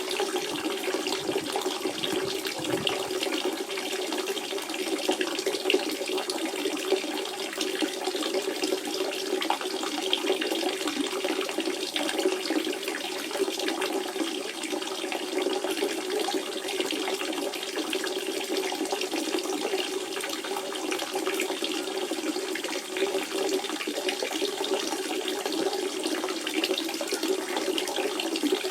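Natural spring water running in a steady, continuous flow, with a constant low rush under fine splashing.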